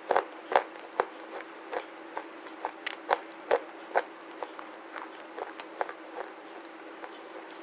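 Close-up chewing of a crunchy black slate bar: sharp, dry crunches about twice a second, louder in the first half and growing smaller as the bite is ground down.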